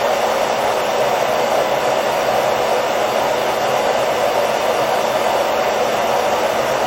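Hair dryer blowing steadily, an even whooshing hiss that is strongest in the mid range and does not change. It is played as continuous white noise for lulling a baby to sleep.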